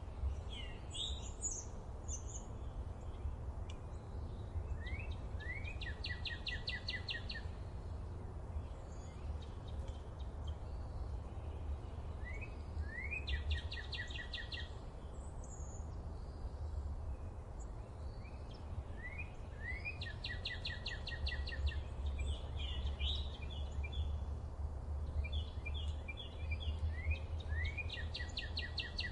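Forest birdsong: a songbird repeats a short song, a few quick rising notes and then a fast even trill, roughly every seven seconds, with scattered fainter chirps from other birds. A steady low rumble runs underneath.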